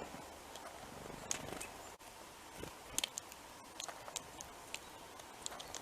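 Small birds at a feeder: scattered short, high ticks and chip notes, some single and some in quick pairs, over a faint outdoor background.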